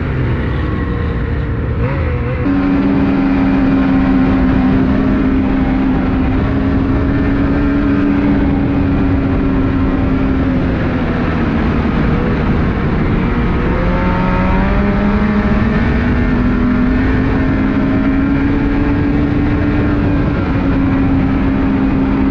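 Ski-Doo Renegade 600R two-stroke snowmobile engine running under way on a packed trail, with track and wind noise. The engine picks up about two and a half seconds in, eases off around halfway, then climbs back up over the last several seconds.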